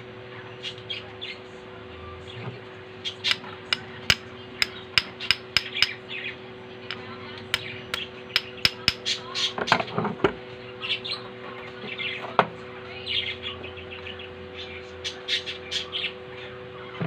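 Sharp metal taps and clicks, a quick irregular run of them, thickest in the first half, as the key is tapped into place on the shaft of a Singer edger sewing machine's flywheel.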